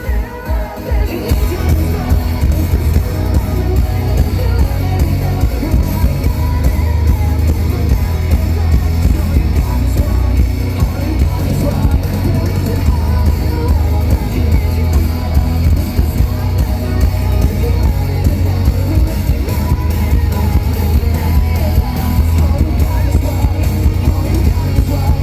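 Live electronic metalcore band performing at full volume, with a heavy pulsing bass beat, guitars and sung and shouted vocals.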